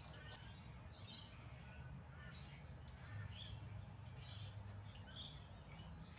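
Faint birds chirping in the background: many short calls scattered through, over a low steady hum.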